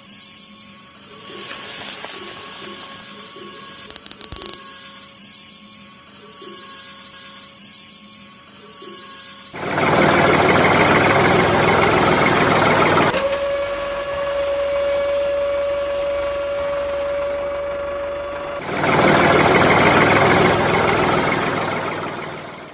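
A small electric motor, like a drill or rotary tool, running in two loud spells of about three and four seconds, with a steady single-pitched hum between them.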